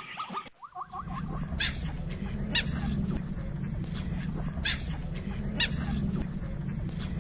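A zebra's barking call breaks off within the first half-second. Then comes a steady low rumble with short, sharp, high bird chirps about once a second.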